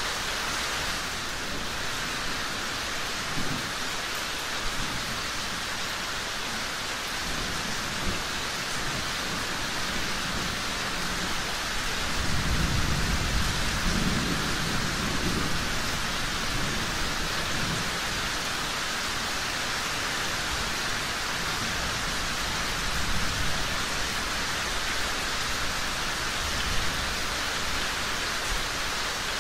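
Steady rain falling, with a low roll of thunder swelling up about twelve seconds in and fading over a few seconds.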